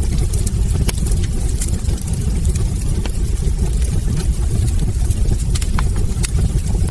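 Wood fire burning in a fireplace: a steady low rumble of flames with scattered small crackles and pops from the burning logs.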